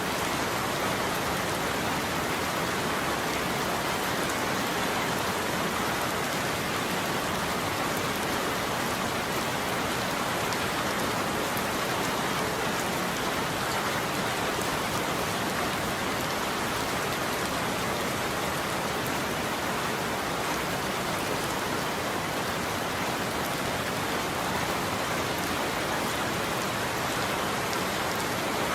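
Steady heavy rain falling, an even hiss with no letup and no thunder.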